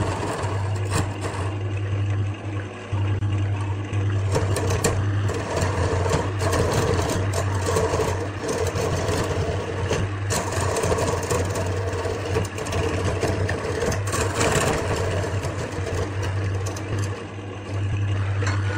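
Wood lathe running with a steady low motor hum, while a turning tool cuts the spinning wood with an uneven scraping noise and frequent small clicks.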